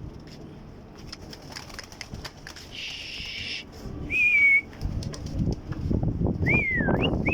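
Domestic pigeons with wings flapping and clattering. A short steady whistle comes about four seconds in, and gliding whistled notes follow near the end.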